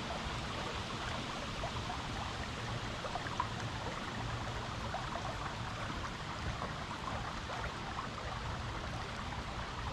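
Stream water running steadily over rocks, a continuous rush with scattered small gurgles and splashes.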